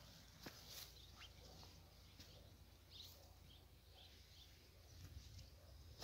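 Quiet countryside ambience: a few faint, short, high bird chirps come and go in the middle, over a steady low rumble and a couple of soft clicks from the phone's microphone.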